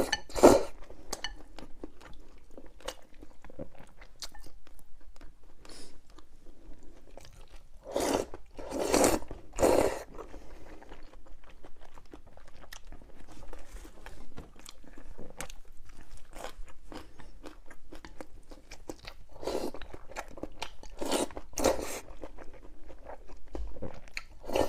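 A person chewing and crunching crisp food close to the microphone: a steady run of small crunchy clicks, with a cluster of louder bites about a third of the way in and again near the end.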